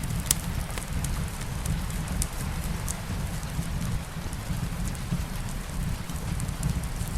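Steady rain mixed with a fireplace: a constant low rumble under a noise haze, with scattered sharp pops and crackles, a few at a time.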